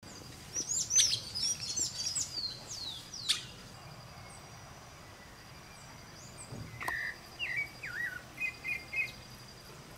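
Several birds calling: a burst of quick, high chirps and whistles over the first three seconds or so, then a few lower whistled notes and a short repeated triple note later on. A faint, steady, high-pitched insect drone runs underneath.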